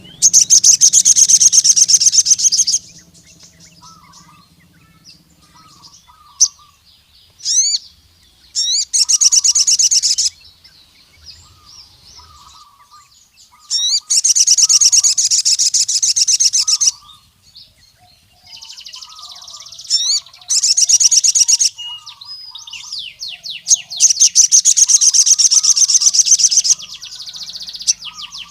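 Sogon sunbird singing in loud, high, rapid trilling bursts of a couple of seconds each, about five of them, with soft short chip notes in the gaps between.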